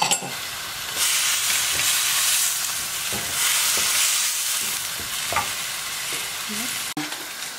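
Sliced sausages with onion and garlic sizzling in a frying pan while a wooden spatula stirs and scrapes them around; the sizzle gets louder about a second in.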